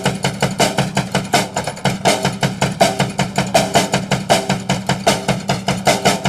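A fast, steady percussive beat, about five or six knocks a second, like a drum or wood-block rhythm, over a constant low hum.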